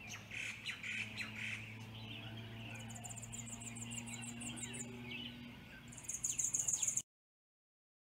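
Birds chirping, with a rapid high trill about three seconds in and a louder one near the end, over a low steady hum. The sound cuts off suddenly about seven seconds in.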